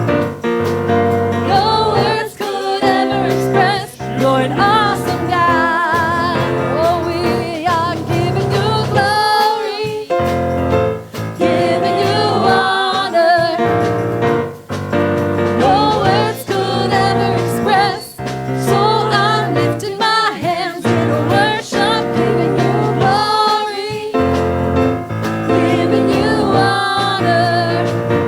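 Gospel worship music: singers with a choir over piano and keyboard.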